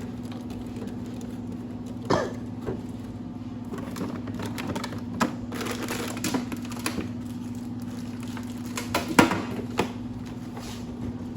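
Scattered knocks and clatter of kitchen items being handled, the sharpest about nine seconds in, over a steady low hum.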